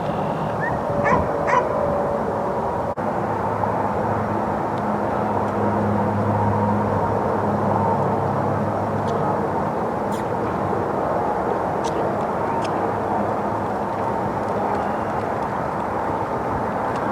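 Tractor engine working steadily in the distance, a continuous drone that swells a little midway. Two short sharp sounds stand out about a second in.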